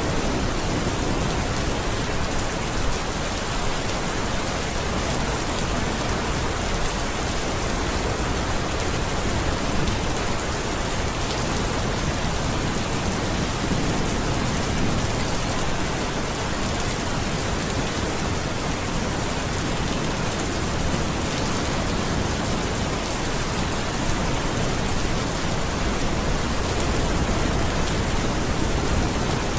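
Steady rain falling, an even continuous hiss without breaks or distinct drops standing out.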